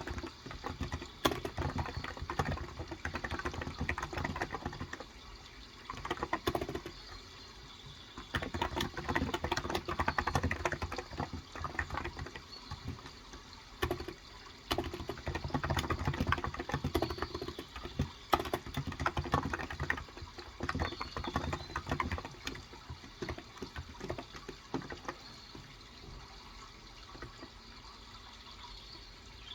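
Typing on a Cox Endeavor tenkeyless electrostatic-capacitive keyboard with 35 g keys: quick runs of keystrokes with brief pauses between them, over a steady sound of running water.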